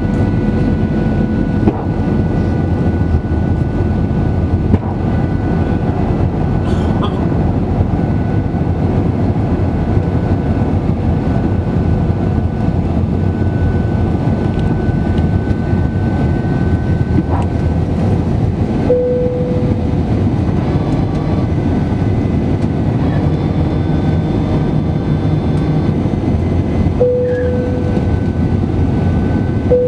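Cabin noise inside an Airbus A320-200 airliner: a steady, loud rumble of the jet engines and airflow, with a thin steady whine. Twice in the last third, a humming tone briefly grows louder.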